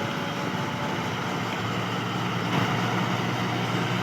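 John Deere 5210 tractor's diesel engine running steadily.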